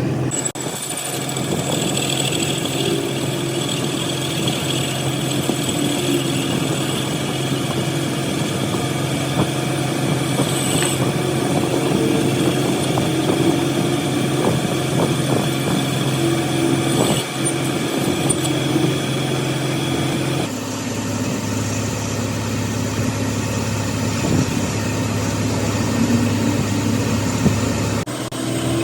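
A machine running steadily with a low, even hum and scattered knocks. The sound changes abruptly about two-thirds of the way through and again near the end.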